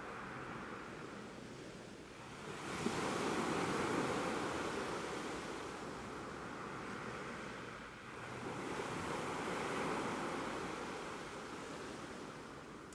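Ocean waves breaking and washing up on a shore, two swells about six seconds apart, each building and then ebbing away.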